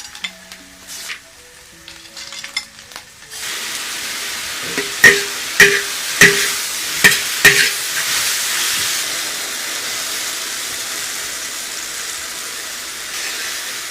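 Food sizzling loudly in a hot pan, a steady hiss starting about three seconds in after a few soft music notes. A little later come about six sharp ringing knocks of a utensil against the pan, then the sizzling goes on steadily.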